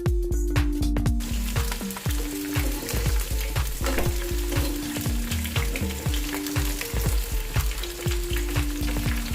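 Chicken pieces deep-frying in hot oil: a dense, steady sizzle that starts about a second in. It plays under background music with a steady beat.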